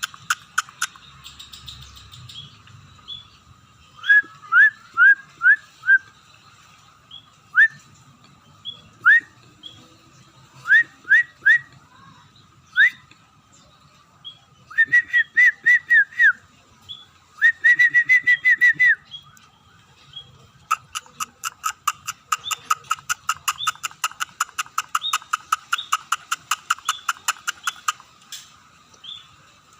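Scaly-breasted munia (emprit peking) singing: short rising whistled chirps, some single and some in quick runs of five or six. About two-thirds of the way through they give way to a long, fast series of clicking notes mixed with whistles.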